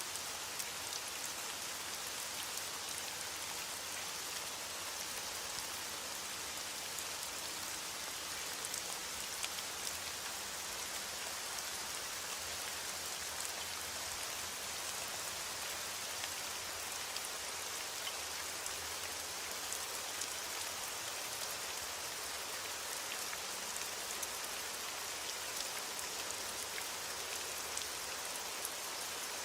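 Steady rain falling, a continuous even hiss dotted with the small ticks of individual drops hitting a surface. No thunder is heard.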